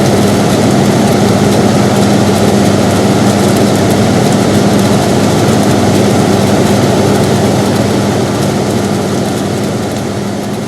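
Air conditioner running steadily: a constant hum with a low tone under an even rush of air. It begins to fade out near the end.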